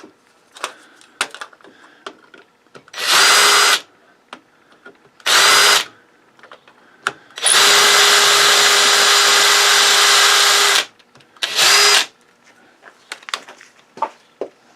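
Electric drill with a 7/32-inch bit run in four bursts, the longest about three seconds, against a circuit breaker's rivet, with a steady motor whine. The rivet spins with the bit instead of being drilled out. Light clicks and taps between the bursts.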